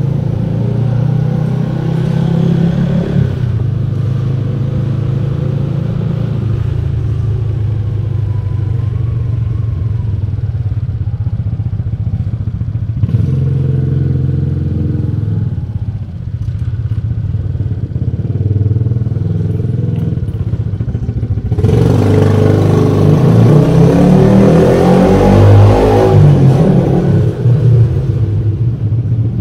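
Small motorcycle engine running as it is ridden at low speed. It grows louder and rougher for about five seconds near the end, as the bike climbs an enclosed car-park ramp.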